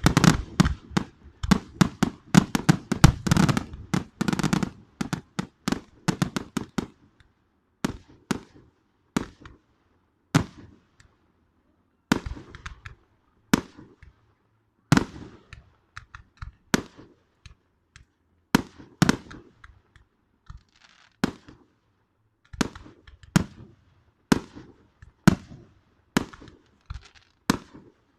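Fireworks exploding in sharp bangs. A dense, rapid barrage for the first five seconds or so gives way to single bangs and short clusters about once a second.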